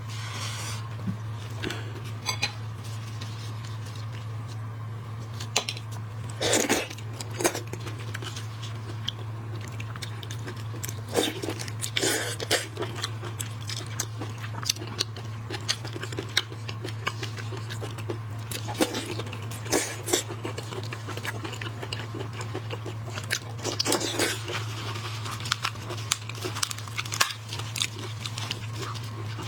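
Close-miked chewing and crunching of shrimp, with scattered crackles of shell breaking and wet mouth clicks. Louder clusters of crunching come about 6, 12, 19 and 24 seconds in, over a steady low hum.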